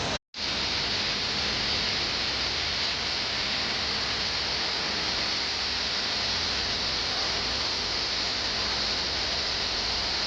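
Steady rushing of a waterfall, water falling and splashing, with a brief cut to silence just after the start.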